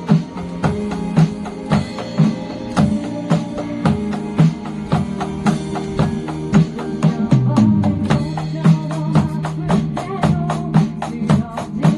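A drum kit played along with a recorded pop song: a steady beat of regular drum and cymbal hits over the song's bass and melody.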